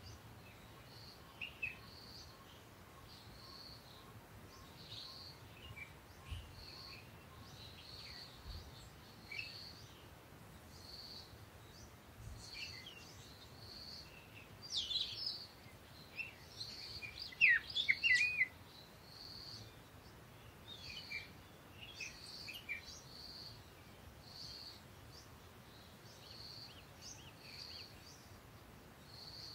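Birds chirping: a short high note repeated about once a second, with a louder run of quick chirps about halfway through. A few faint low thuds from handling lie underneath.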